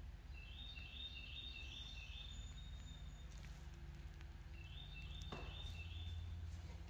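A songbird sings two phrases of quickly repeated high chirping notes, a longer run near the start and a shorter one about five seconds in, over a steady low hum.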